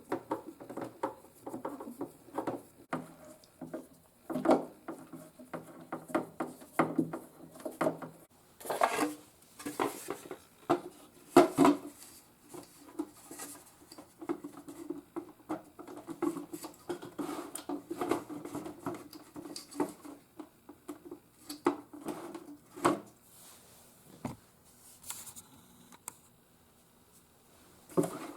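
Irregular clicks, taps and scraping of hands handling plastic and metal parts while a CRT monitor is put back together, with a few louder knocks.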